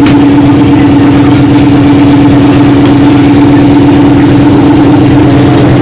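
A car engine idling steadily and very loudly close by, with an even, unchanging hum.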